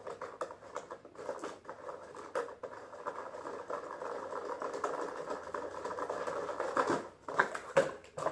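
Rustling, crinkling and irregular clicking of toy packaging as a toy train is worked out of its box, with a run of sharper clicks near the end.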